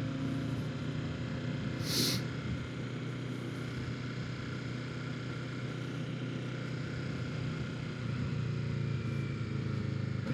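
Kawasaki Ninja 650's parallel-twin engine running steadily as the motorcycle is ridden, with a short hiss about two seconds in.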